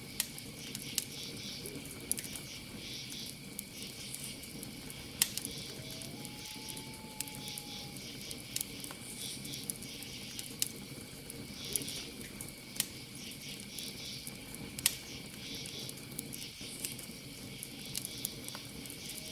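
Campfire crackling with scattered sharp pops over a steady cricket trill. About six seconds in comes one long hooting call that rises briefly, then holds for about two seconds.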